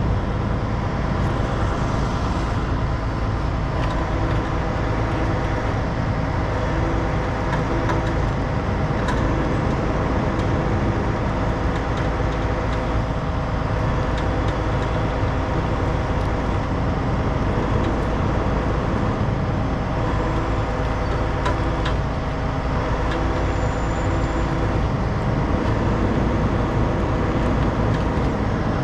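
Heavy truck diesel engine running steadily during a recovery pull.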